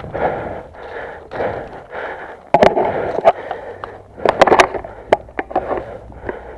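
Running footsteps and hard breathing of an airsoft player in a rough rhythm of about one pulse every half second. Several sharp cracks come in quick succession near the middle.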